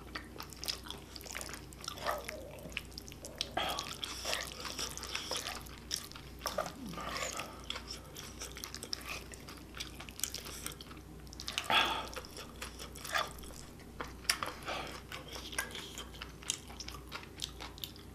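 Close-miked wet chewing and lip-smacking of a person eating saucy stir-fried octopus, with many uneven sharp clicks.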